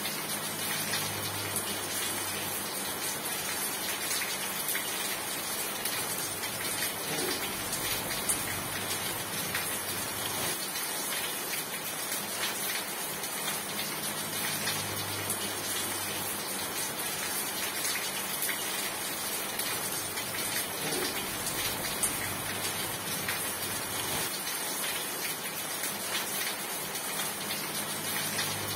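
Steady heavy rain falling, a dense even hiss of drops with scattered louder drop ticks, and a faint low hum swelling and fading a few times.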